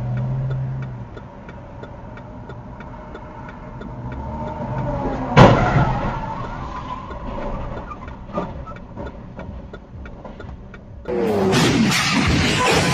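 Car engine and road noise, with one sudden loud bang about five seconds in. About eleven seconds in the sound cuts abruptly to louder engine and tyre noise.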